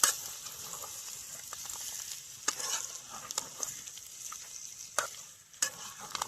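Pork curry sizzling as it fries in a pan, with a steady high hiss. A spoon stirring it scrapes and knocks against the pan several times.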